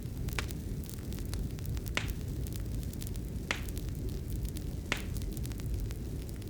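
Fire burning in a fireplace: a steady low rumble with a scatter of small crackles and four sharper pops about a second and a half apart.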